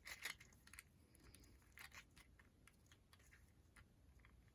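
Near silence, with a few faint clicks and rustles of small craft pieces being handled, the loudest just after the start and a couple around two seconds in.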